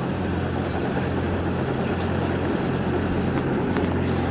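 Heavy engine running steadily at an even speed, a constant low drone.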